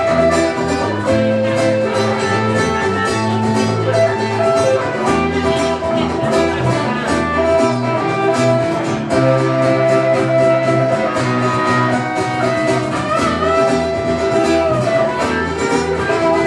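Live band playing an instrumental passage on lead guitar, bass guitar and acoustic guitar, with a steady beat.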